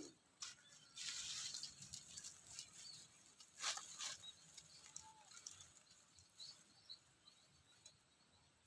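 Chilies frying in a pan of oil: a faint sizzle with scattered crackling pops, the sizzle strongest about a second in and the pops thinning out toward the end.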